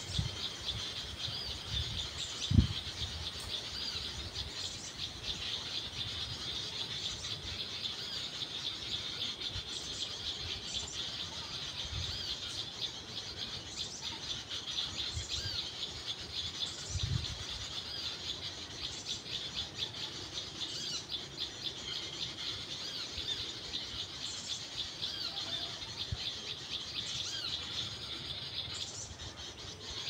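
Small birds chirping and twittering in a dense, unbroken high-pitched chatter, with sharper high notes every second or two. A soft thump sounds about two and a half seconds in.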